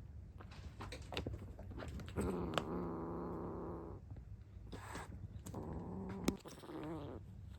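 Kittens vocalizing: two drawn-out, steady-pitched calls of a second or two each and a shorter wavering one near the end, with a few sharp clicks and knocks of play in between.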